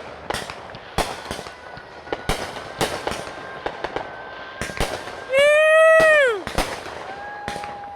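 Fireworks going off: a string of sharp bangs and pops. About five seconds in comes a loud held tone of about a second that drops in pitch at its end.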